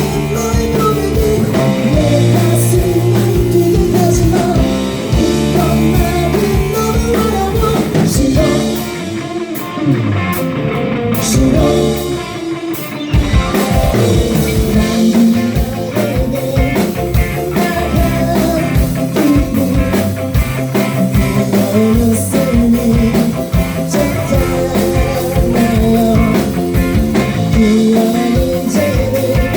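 Live rock band playing, with electric guitar and drum kit keeping a steady beat, and singing. Around ten seconds in the band briefly thins out, then comes back in full.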